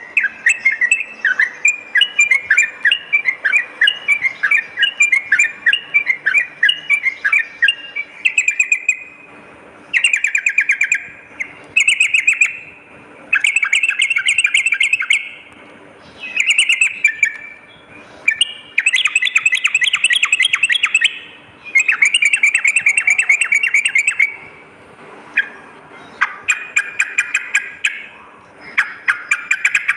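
Yellow-vented bulbul (trucukan) singing: rapid bubbly chattering notes at first, then a run of short, fast, rattling phrases of a second or two each, with brief pauses between them.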